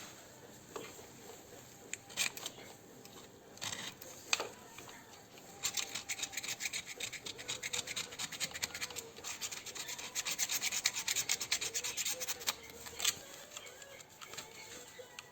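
Hand scraping or rasping on a part: a few separate knocks, then from about six seconds in a steady run of quick, repeated scraping strokes that stops a couple of seconds before the end.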